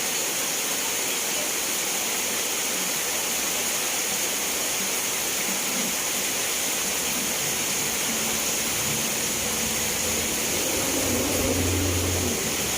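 Steady rain falling, an even hiss. About two-thirds of the way in, a low hum comes in under it.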